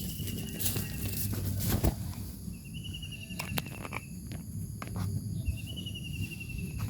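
A bird giving a trilled call three times, each about a second long and falling slightly, with a few sharp clicks between the calls.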